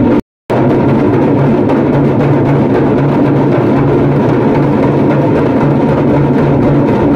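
A group of damrus, small hourglass drums, rattled together in a dense, fast, unbroken roll. The sound cuts out to silence for a moment just after the start.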